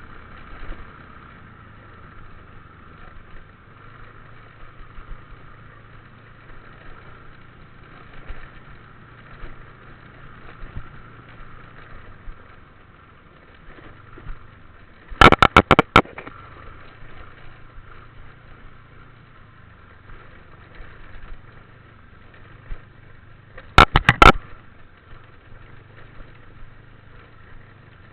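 Small motorbike engine running steadily. Two short bursts of loud, rapid clatter cut in, one about halfway through and one near the end.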